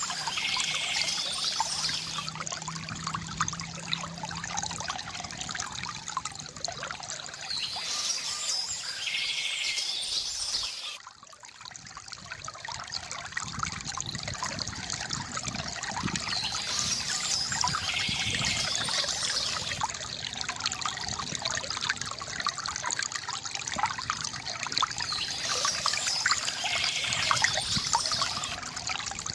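Water from a bamboo fountain trickling and splashing steadily, with a bird's chirping call recurring about every nine seconds. The water briefly drops away about eleven seconds in, then swells back.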